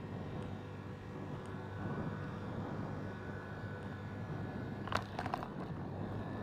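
Jet airliner engines rumbling steadily in the distance. There is a short cluster of sharp clicks about five seconds in.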